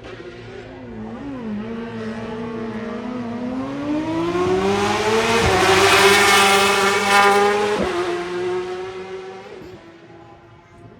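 A racing motorcycle at full throttle approaching and passing, its engine note climbing steadily with two quick upshifts about five and a half and eight seconds in. Loudest as it goes by about six seconds in, then fading as it pulls away.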